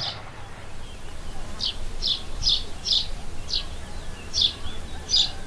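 A small bird calling, a series of short high chirps about twice a second, starting about a second and a half in, over a steady low rumble.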